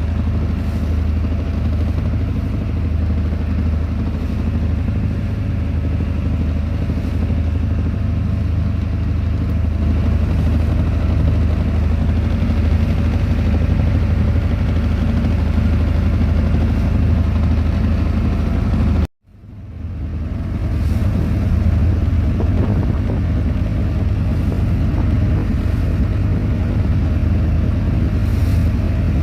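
An engine running steadily, a low drone with noise over it. About two-thirds of the way through it cuts out abruptly and fades back up within a second.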